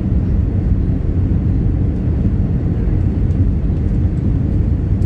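Steady low rumble inside the cabin of an Airbus A319 airliner: engine and airflow noise heard from a forward window seat.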